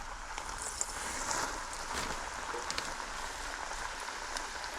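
Breaded Spanish mackerel pieces deep-frying in hot oil: a steady sizzle with scattered crackles and pops.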